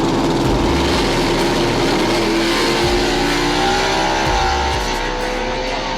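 Drag-racing cars, a Mustang race car and a Regal street car, accelerating hard at full throttle. The engine pitch climbs and breaks twice, about two and a half and four and a half seconds in, as they shift gears.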